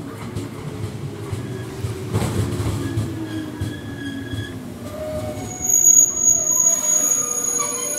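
Shinano Railway 115 series electric train pulling into the station, with a tone that falls slowly as it slows. From about five and a half seconds in comes a high-pitched squeal of wheels and brakes as it comes to a stop, the loudest part.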